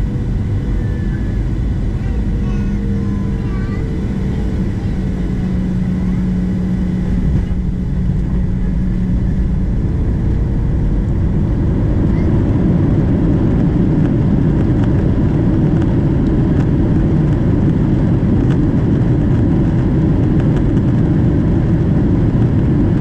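Cabin noise aboard a Boeing 737-700 airliner: its CFM56 jet engines and rushing air make a steady loud noise with a low hum. About twelve seconds in, the noise swells and stays louder.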